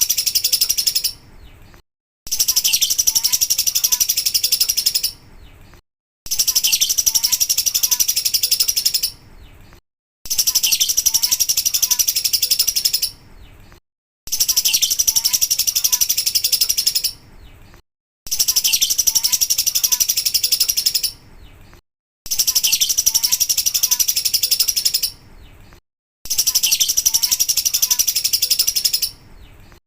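Lovebird 'ngekek' song: a rapid, high-pitched chattering trill lasting about three seconds, repeated every four seconds with short silent gaps, as a looped recording.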